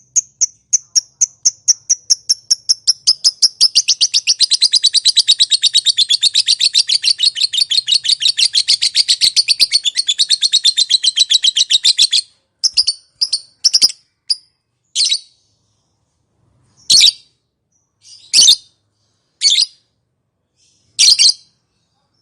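Lovebird's long 'ngekek' chatter: a fast, unbroken string of high, evenly repeated notes that packs tighter about four seconds in and breaks off about twelve seconds in. It is followed by half a dozen separate short calls spaced a second or two apart.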